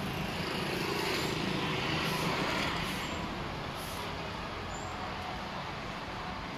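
Street traffic: a motor vehicle passing close by, its engine and tyre noise swelling over the first few seconds and then easing back into a steady traffic hum.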